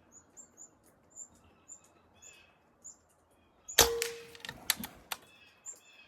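Small birds chirping repeatedly in short high notes. About four seconds in, a sharp metallic knock rings briefly, followed by three light clicks.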